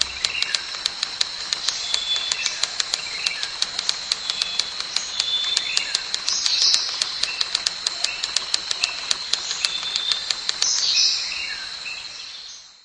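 Nature ambience: short bird chirps over a steady high-pitched insect drone and a fast, even clicking of about four to five clicks a second, fading out near the end.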